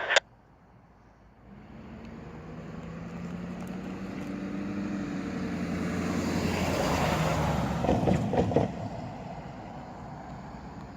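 GE diesel-electric locomotives throttling up during a switching move; the engine sound swells to a peak about seven seconds in, then eases off. A brief clatter comes near eight seconds.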